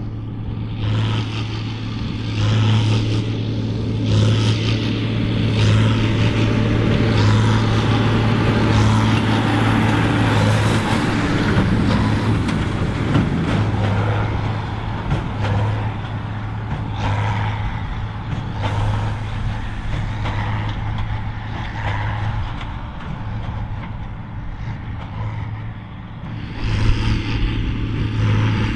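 John Deere 4955's six-cylinder diesel running hard under the load of a Krone BigPack 4x4 big square baler, a steady low drone that pulses with the baler's working rhythm. The sound eases a little late on, then swells again near the end.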